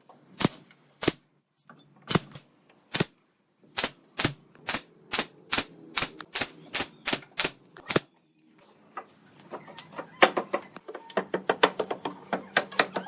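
Repeated sharp hammer blows on wood. A few come scattered, then a steady run of about two a second, then after a short pause a faster run of quicker taps.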